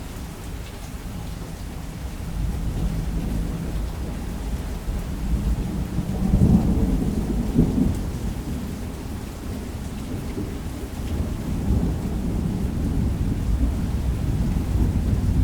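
Thunderstorm: steady heavy rain under a low rumble of thunder. The rumble swells to its loudest about six to eight seconds in, then keeps rumbling.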